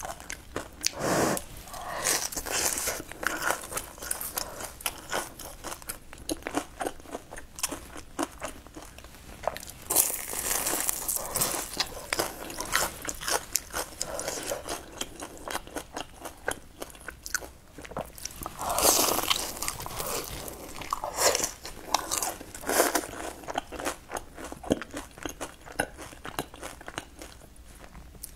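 Close-miked biting and chewing of a crisp deep-fried pastry: dense crackly crunches, with louder bursts of crunching as fresh bites are taken.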